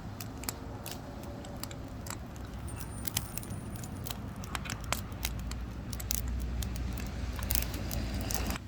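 Burning firewood crackling with frequent sharp pops and snaps, over a low rumble that grows louder about halfway through and drops away at the end.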